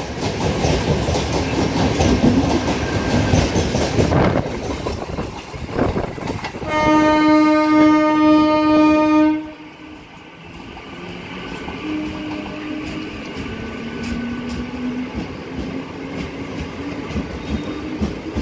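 Kolkata EMU local train running through at high speed, a loud rumble of wheels clattering on the rails, then a long steady horn blast of about three seconds starting around seven seconds in. After the horn cuts off abruptly, a quieter, more distant train rumble follows.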